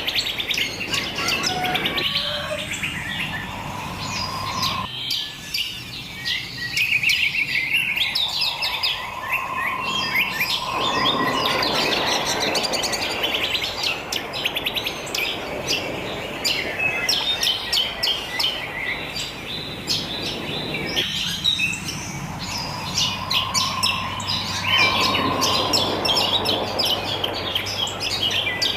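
A dense chorus of wild birds chirping and singing, many rapid high chirps overlapping without pause, with a clear whistled note returning now and then. The same passage comes back about sixteen seconds later, as in a looped recording, over a faint steady low hum.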